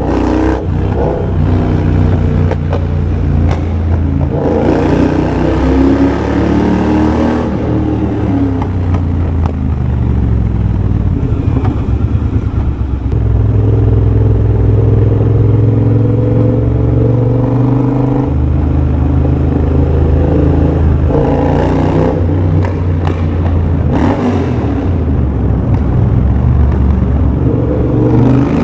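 2023 Triumph Bobber's 1200 cc parallel-twin running through a de-catted TEC X-pipe and Motone shorty exhaust while riding. The pitch rises as it accelerates, with brief dips where the throttle is closed for gear changes, and it holds a steady cruise for a few seconds in the middle.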